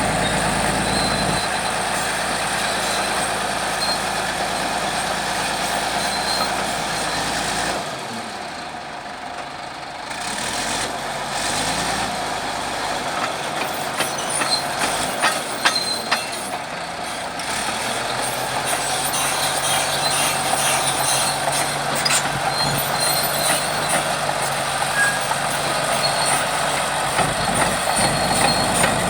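Bulldozer working: its diesel engine runs steadily, with scattered metallic knocks and clanks. The engine note drops away briefly about eight seconds in, then picks up again.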